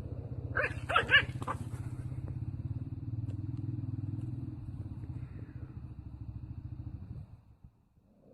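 An animal growling in a long, low, steady rumble, with a few short yelps about a second in. The growl stops about seven seconds in.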